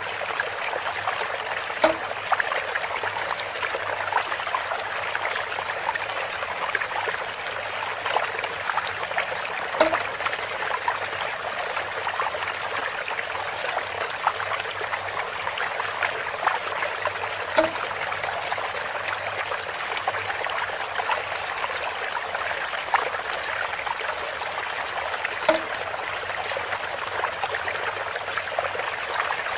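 Bamboo water feature: water trickling and splashing steadily through bamboo, with a short hollow knock about every eight seconds, four in all.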